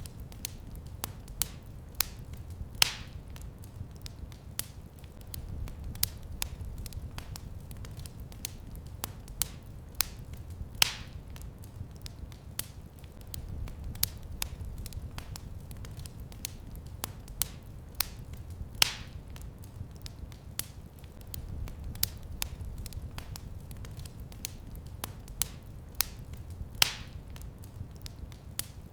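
Wood fire crackling in a fireplace: a steady run of small crackles over a low rumble, with a louder pop about every eight seconds.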